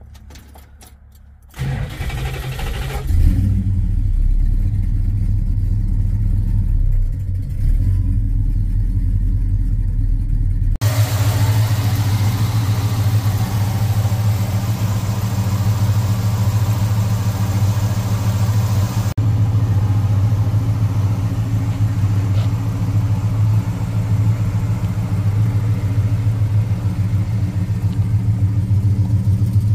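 A 1966 Dodge Charger's rebuilt 440 cubic-inch Mopar big-block V8 is cranked on the starter and catches with a brief rev about three seconds in, then idles steadily. The sound changes abruptly about eleven and nineteen seconds in, heard first from the driver's seat, then close to the open engine bay, then from beside the car.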